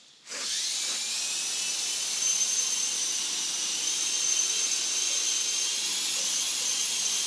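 E-sky coaxial RC helicopter's electric motors and twin rotors start abruptly about a quarter second in, then run with a steady high-pitched whine.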